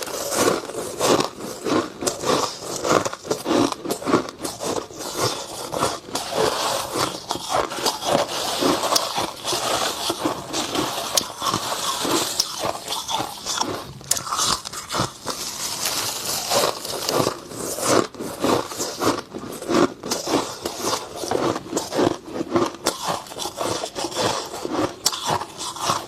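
Close-up crunching and chewing of dry freezer frost: a dense, irregular run of crisp crackling bites, with scraping sounds mixed in.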